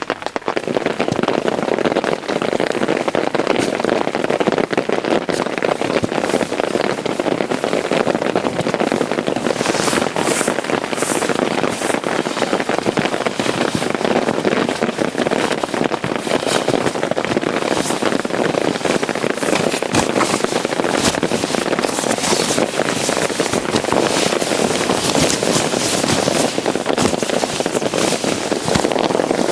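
Heavy rain pattering densely on a tent, a steady crackling hiss of many drops with sharper ticks throughout, rising to full level just after the start.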